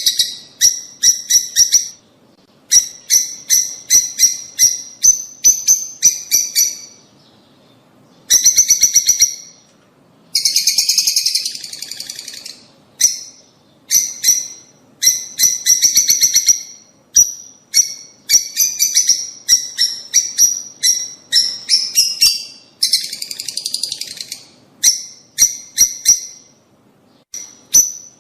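Lovebirds calling: rapid runs of high-pitched chirps in bursts of one to a few seconds, with short gaps between them.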